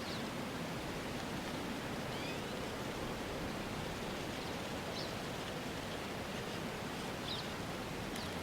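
Steady rushing outdoor ambience noise with faint, short high squeaks repeating about every two and a half seconds.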